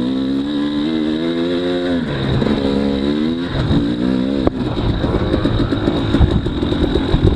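Off-road motorcycle engine of a 300 dirt bike racing through the course, its pitch rising and falling with the throttle. About four and a half seconds in there is a sharp knock, and after it the engine sound turns choppier and rougher.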